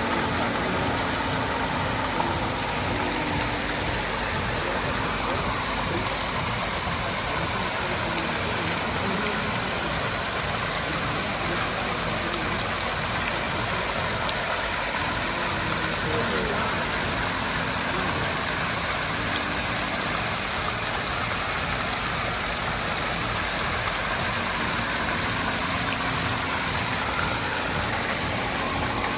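Water fountain running, a steady splashing rush, with a murmur of voices behind it.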